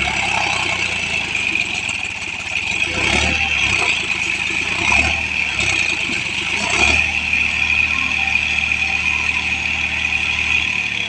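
Tractor engine running steadily under load, surging louder three times in the middle as it is revved, while the tractor tries to drive out of deep paddy-field mud.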